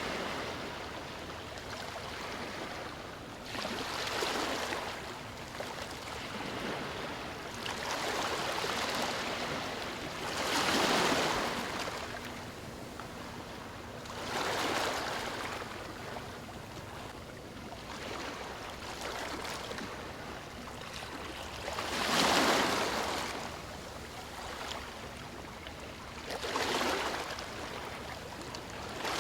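Gentle ocean waves lapping on a shore, each wave swelling and washing out about every three to four seconds, the strongest about a third of the way in and again about three-quarters of the way through.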